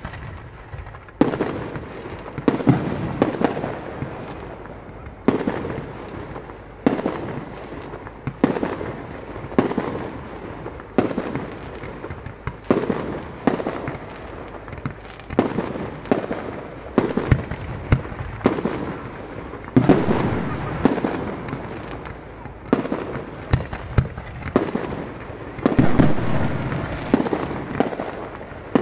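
Fireworks going off one after another: sharp bangs about once a second or so, each fading off quickly.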